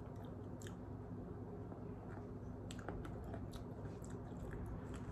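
A person chewing a bite of pizza close to the microphone: soft mouth clicks and small crunches, thickest about three seconds in, over a steady low hum.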